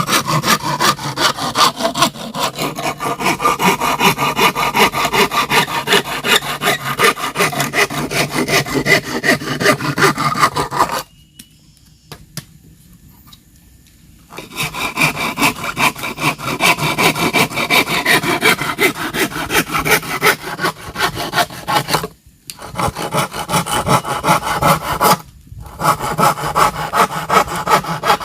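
Hand saw cutting through bamboo in quick back-and-forth strokes, several a second. The sawing stops for about three seconds partway through, then resumes with two short breaks later.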